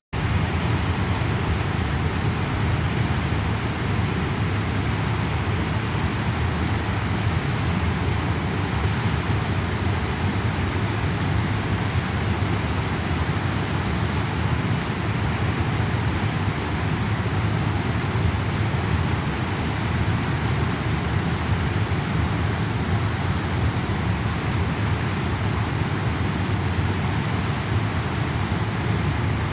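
Loud, steady, unbroken roar of rushing floodwater, heaviest in the low range.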